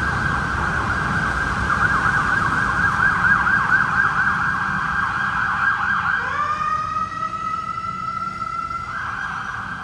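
Emergency vehicle siren in a fast yelp, switching about six seconds in to a rising wail that glides up and holds a steady tone, then going back to the yelp near the end. Street traffic rumbles underneath.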